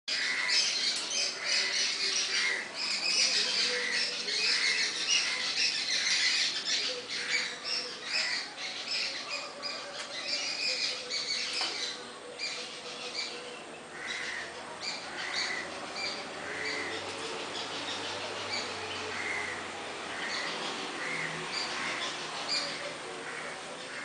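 Birds chirping and squawking, many overlapping calls at first, thinning after about twelve seconds to one repeated chirp about once a second.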